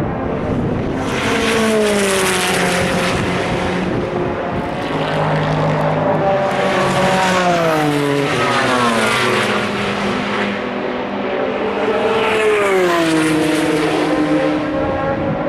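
Endurance race cars passing one after another at speed, three surges of engine sound in turn, each engine's pitch falling as it goes by.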